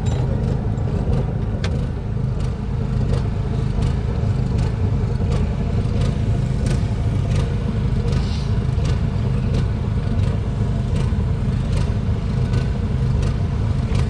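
An engine running steadily with a low, even drone, and sharp clicks and knocks every second or so.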